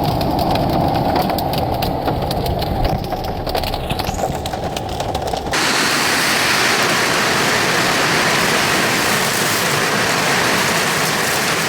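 Storm noise of heavy rain and rushing floodwater. A low, rumbling stretch with many small patters cuts sharply, about five and a half seconds in, to a steady bright hiss of rain and running water.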